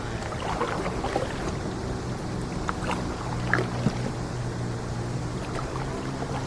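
A boat's engine running steadily with a low hum, over water noise and scattered small knocks.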